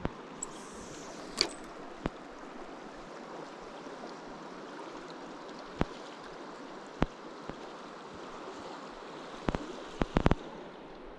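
Steady rush of a flowing river, with a handful of short sharp clicks scattered through it and several close together near the end.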